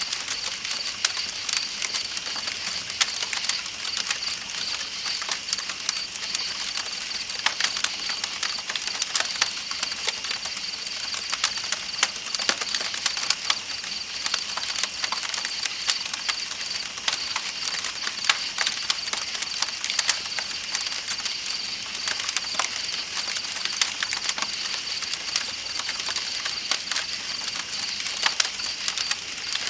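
Campfire crackling with irregular sharp pops, over a steady high-pitched chorus of night insects and the hiss of a flowing river.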